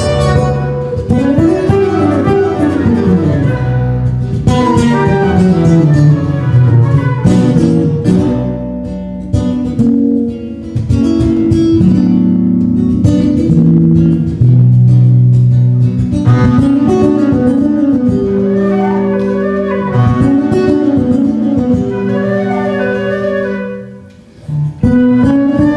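A trio playing instrumental music live, a gliding melodic line over a repeated accompaniment; the music thins out for a moment shortly before the end, then comes back in.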